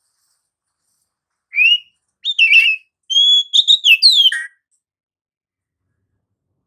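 Oriental magpie-robin (kacer) singing one short phrase of clear whistled notes: a single rising note about a second and a half in, then a quick run of rising and falling whistles that stops just after halfway.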